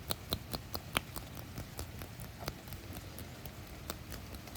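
Irregular sharp clicks and light taps, several a second, over a low steady hum.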